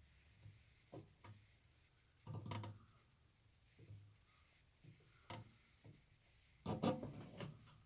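Faint, scattered metallic clicks and clunks of a brand-new Dietz Jupiter hurricane lantern being handled as it is lit, its stiff globe-lift action being worked; the loudest knocks come about two and a half seconds in and again near the end.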